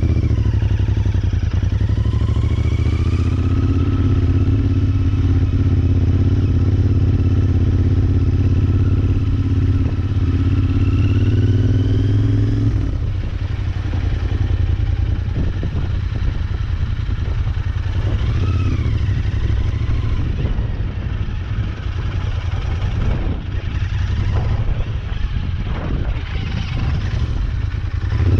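Motorcycle engine running, its pitch climbing slowly for about twelve seconds and then dropping away, with short rises and falls later on, over a steady low rumble.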